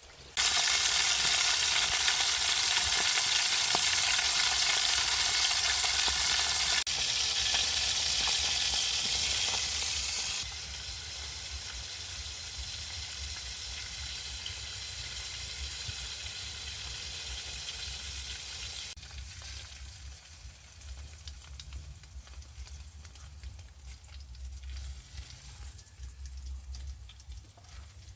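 Food going into hot oil in a frying pan: a sudden loud sizzle that dies down in stages over the next twenty seconds or so.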